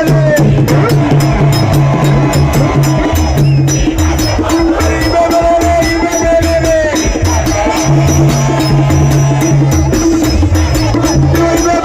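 Loud live band music with a fast, steady percussion beat and a repeating bass line.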